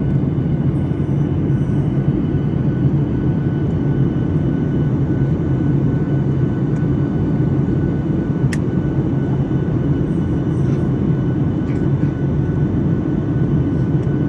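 Steady low rumble and hum of an airliner cabin, with a faint steady whine above it. A single short click comes about two-thirds of the way through.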